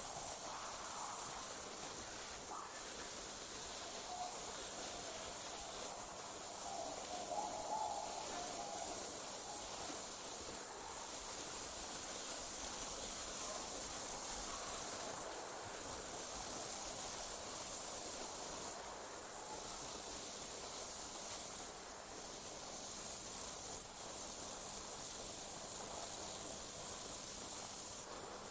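Night insects trilling in a continuous high-pitched drone, broken by brief pauses every few seconds.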